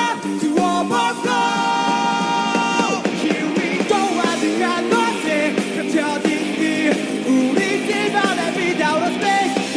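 Live pop-rock band playing with singing; a long held note rings out steadily about a second in, then the band and voices carry on.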